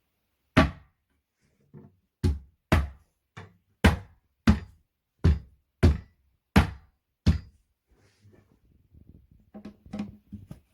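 About ten sharp knocks on flat-pack furniture parts, coming at uneven intervals of roughly half a second. Softer handling noises follow near the end.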